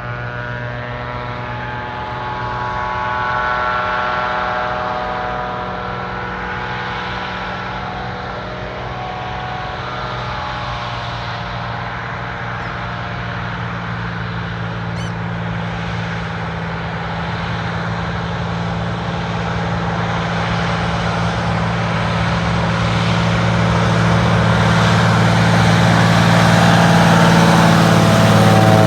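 Floatplane engine and propeller running, a steady low drone with higher tones that fade out midway and return near the end, growing louder toward the end.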